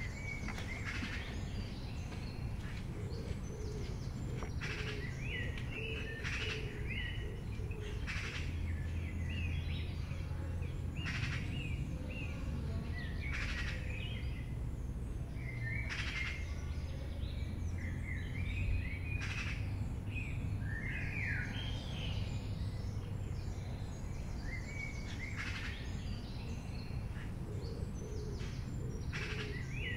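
Small birds chirping again and again, short sliding chirps, over a steady low hum. Short noisy sounds come every second or two.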